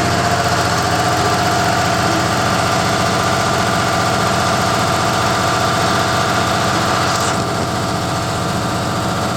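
Suzuki Swift Sport ZC32S's M16A 1.6-litre four-cylinder engine idling steadily.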